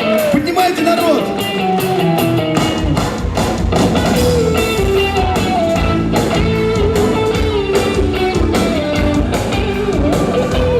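Live rock band playing an instrumental intro, a guitar melody over chords; the drums and bass come in about three seconds in.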